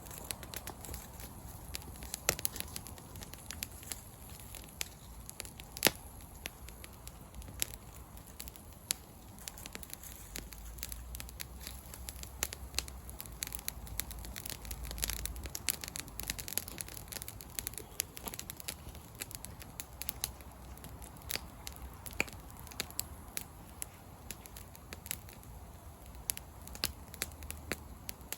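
Wood campfire burning, with irregular crackles and pops over a soft hiss; one sharp pop about six seconds in is the loudest.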